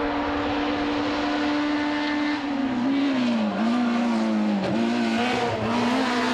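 Simca 1000 rally car's four-cylinder engine running hard at high revs, held at one steady pitch for about two seconds, then dipping and climbing again several times.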